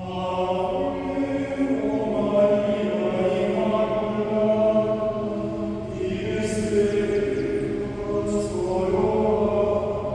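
Choral chanting music: several voices singing long held notes that move slowly from pitch to pitch.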